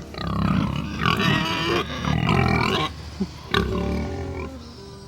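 Large fattened hogs grunting on and off, close up.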